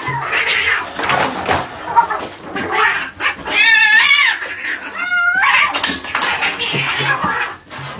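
A cat yowling, with two long, wavering cries, the first about three and a half seconds in and the second about five seconds in.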